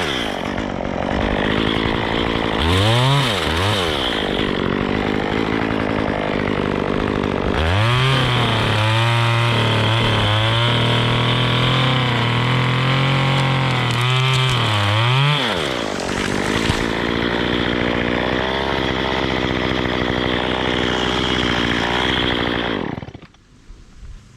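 Chainsaw engine revving: a short blip, then held at full throttle for about seven seconds in the middle, dropping back and running steadily before it stops near the end.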